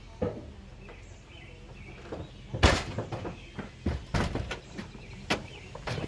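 Scattered knocks and clunks over a low background, the loudest about two and a half seconds in, with a few more in the second half.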